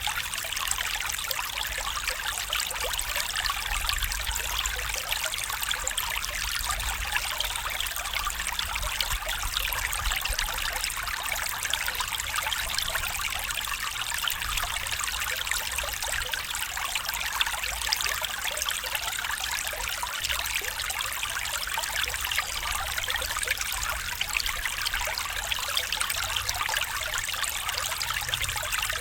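Stream water trickling and babbling over stones, a steady rushing flow with no breaks.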